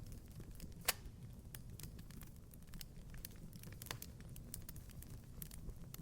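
Wood fire crackling in a fireplace: irregular small pops and snaps over a low steady rumble, with one sharp, louder pop about a second in.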